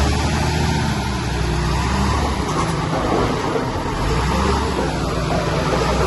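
Heavy diesel earthmoving machinery running steadily. The low engine note shifts about two and a half seconds in and settles again about a second later.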